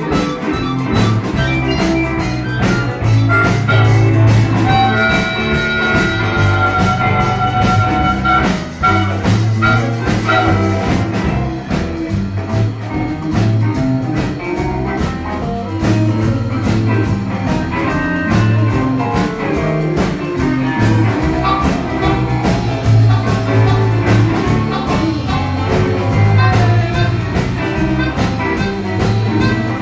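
Live band playing an instrumental passage with no singing: a drum kit keeps a steady beat under a bass line, and a lead instrument carries the melody with held notes in the first third.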